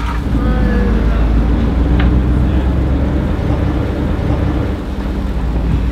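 Mercedes-Benz SLR McLaren Stirling Moss's supercharged V8 running with a steady low rumble as the open roadster moves off at low speed; the sound eases briefly shortly before five seconds in.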